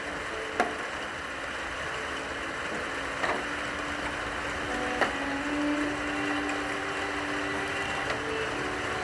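Steady rain hiss with a few sharp drips, under slow, long-held cello notes.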